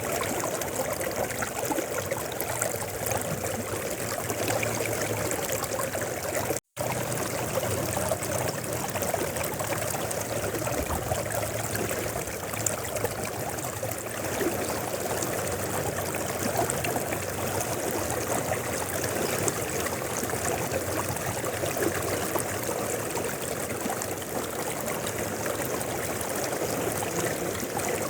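Mountain river flowing steadily, a continuous rushing and trickling of water. About a quarter of the way in the sound cuts out for a split second, like an edit splice, then carries on unchanged.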